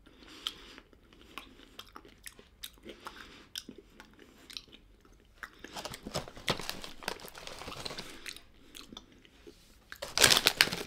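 Close-up crunching and chewing of hard Tuc Baked Bites crackers, gummed without teeth. Near the end comes a loud crinkling rustle of the snack bag.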